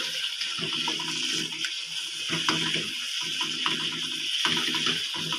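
Tripe (ojhri) frying in oil and spices in a nonstick wok, with a steady sizzle, while a spatula stirs it and scrapes and clicks against the pan again and again.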